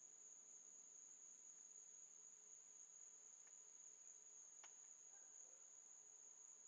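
Faint, steady high-pitched trill of crickets at near-silence level, with a couple of faint ticks.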